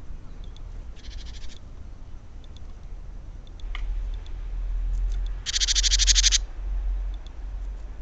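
A bird's rapid, high-pitched trilled calls in two short bursts under a second each: a quieter one about a second in and a louder one past the middle, over a low steady rumble.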